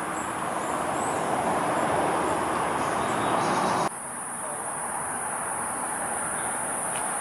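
Steady high-pitched insect chorus of tropical forest, over a broad rushing background noise. About halfway through, the sound changes abruptly: the rushing drops away and the insect buzz stands out more clearly.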